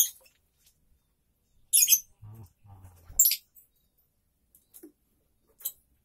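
Small pet bird giving two short, shrill squawks, about two and three seconds in, as it is grabbed by hand, with a faint low murmur between them and a last small chirp near the end.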